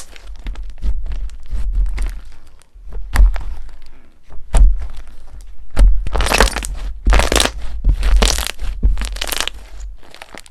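Crunchy slime being squeezed and pressed by hand: sharp crackles and clicks, then four dense bursts of crackling about a second apart from about six seconds in, over low thumps from handling.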